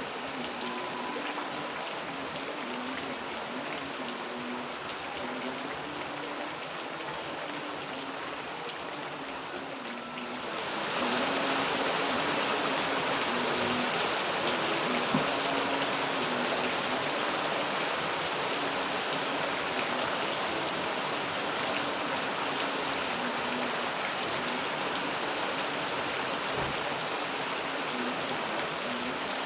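Steady rainfall that suddenly turns louder and heavier about ten seconds in, then keeps falling evenly.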